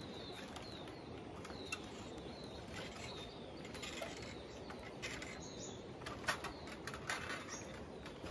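A bird calling with short, repeated downward chirps over a faint steady background hiss, with a few soft knocks scattered through.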